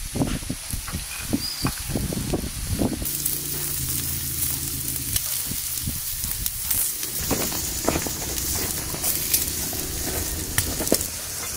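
Food sizzling as it fries in a pan, a steady hiss with a run of short knocks and scrapes of a utensil in the first few seconds and scattered clicks after.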